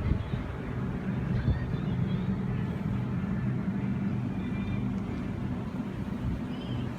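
Steady low hum of an electric double-deck suburban train, with faint voices in the background.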